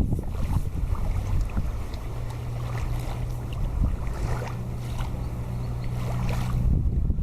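A motorboat's engine running as a steady low drone that comes in about two seconds in, with wind buffeting the microphone.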